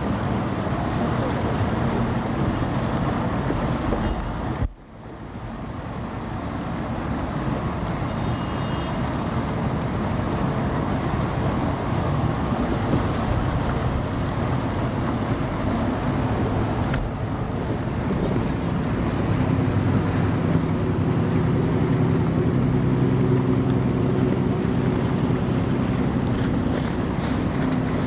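Motorboat running on open water, its engine hum under heavy wind noise on the microphone. The sound drops out suddenly about five seconds in and comes back within a second or two; the engine hum is stronger in the second half.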